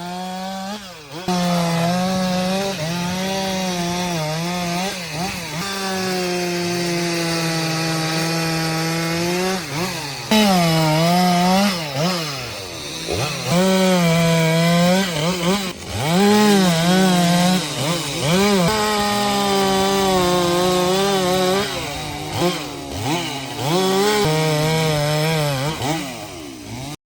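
Stihl MS 462 C-M two-stroke chainsaw at full throttle cutting through wood. The engine pitch sags again and again as the chain bites into the wood, then climbs back. The sound cuts off abruptly near the end.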